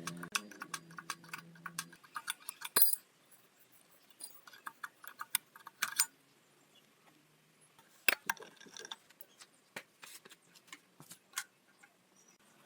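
Irregular light metallic clinks and taps from small metal tools and parts being handled, with a few sharper knocks, busiest in the first three seconds and again later.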